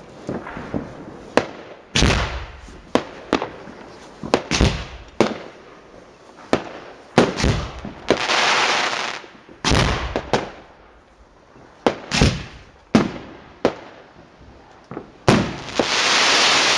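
Fireworks going off: many sharp bangs at irregular intervals, some close together. There are two longer hissing rushes, one about eight seconds in and one near the end.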